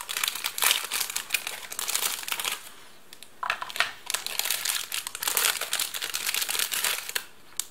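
Plastic ration packaging crinkling as it is handled, in irregular runs with a short pause about three seconds in.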